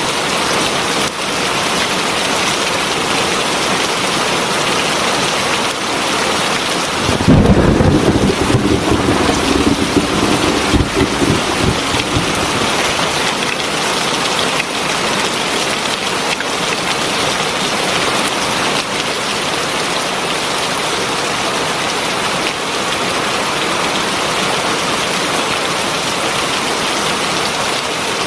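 Heavy rain falling steadily, with a clap of thunder about seven seconds in that rumbles on for around four seconds before fading back under the rain.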